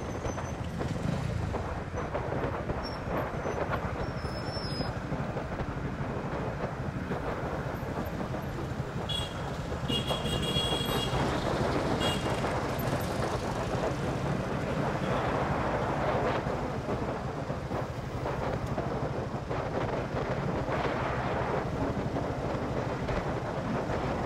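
Honda CB150R's single-cylinder engine running steadily at cruising speed, with road and wind noise from riding. A few short high-pitched tones sound about ten seconds in.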